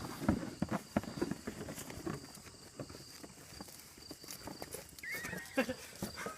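A run of light, irregular knocks and taps, about three a second, with a short warbling chirp about five seconds in.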